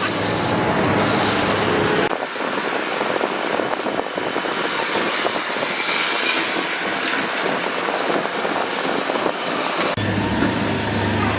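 Heavy diesel construction machinery at work: an engine drone with clattering and rattling over it. The sound changes abruptly twice, the engine drone strongest in the first two seconds and again near the end.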